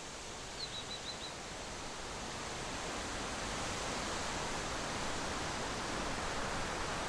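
Steady outdoor rushing noise that slowly grows louder, with a short bird call of four quick high chirps about half a second in.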